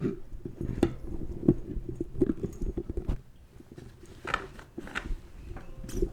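Unwanted crackling and rustling noise close to the microphone, broken by irregular knocks, some of them sharp.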